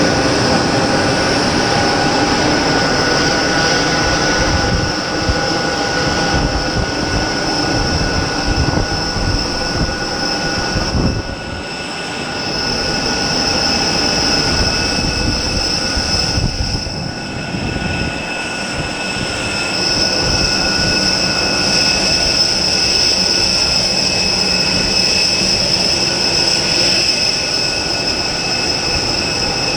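Steady high-pitched turbine whine of an airliner on the ramp, several tones held over a rumbling noise, dipping briefly twice.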